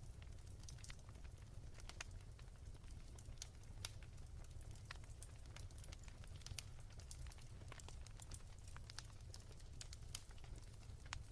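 Wood fire crackling softly in a fireplace: scattered, irregular small pops and snaps over a low steady rumble.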